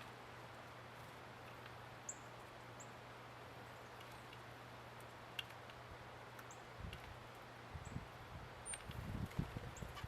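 Small birds giving short, high chip calls every second or so over a steady outdoor hiss. From about seven seconds in, a series of low thumps and bumps.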